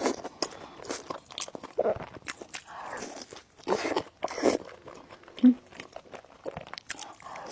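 Someone biting and chewing crunchy food, a run of crisp crunches. A short, loud low blip about five and a half seconds in.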